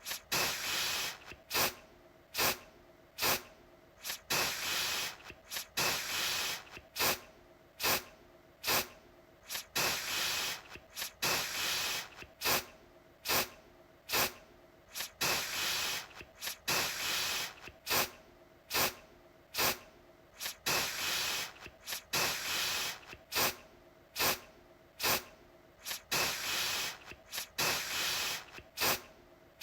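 Aerosol deodorant can spraying over and over: brief spritzes mixed with longer hissing sprays of about a second, each with a short pause before the next.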